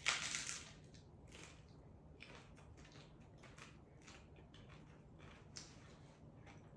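Close-up eating sounds from a taco: a loud bite right at the start, then scattered short crunches and wet chewing noises.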